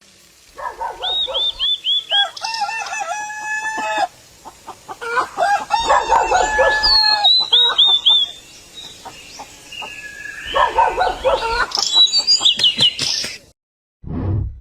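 Birds calling in three bouts of rapid, pitched, repeated calls, with a short burst of sound near the end.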